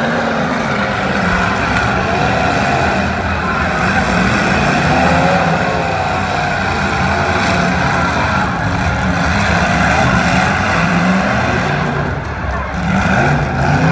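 Demolition derby cars' engines revving hard and rising and falling in pitch as they spin their wheels on the dirt and push against each other, with voices from the crowd mixed in.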